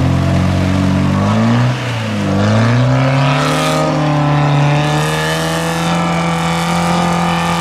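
Off-road 4x4 engine revving hard. The pitch dips about two seconds in, then climbs back and holds high and steady.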